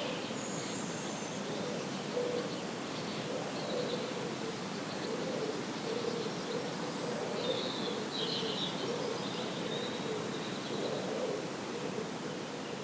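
Outdoor rural ambience: a steady hiss of background noise with birds calling, a low wavering cooing or hooting repeated throughout and a few short high chirps, loudest about eight seconds in.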